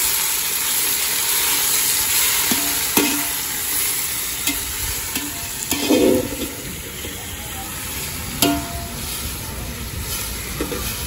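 Oil sizzling steadily in a large cooking pot, with scattered sharp clicks of a ladle stirring against the metal and a duller knock about six seconds in.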